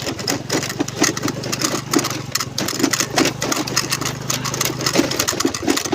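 Honda Navi scooter's small single-cylinder engine running steadily, with a constant low hum and many short crackles and knocks over it.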